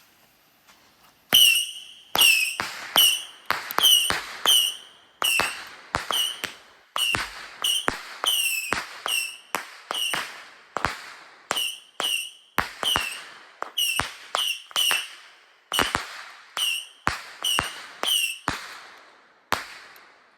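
A Saturn Missiles firework battery going off: a rapid string of about thirty sharp, loud cracks, roughly two a second, starting about a second and a half in. Most cracks come with a short screeching whistle that dips slightly in pitch.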